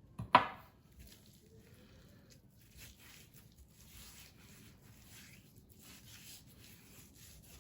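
A sharp knock about half a second in, then faint, soft swishing and rubbing as salt and pepper are sprinkled and rubbed by hand over a raw brisket.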